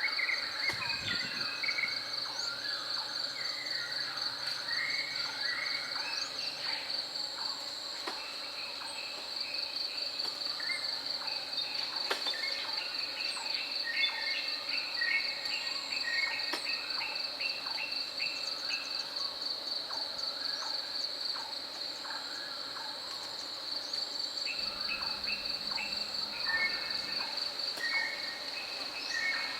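A steady, high, fast-pulsing insect trill continues throughout, with several birds singing and calling over it in short repeated phrases.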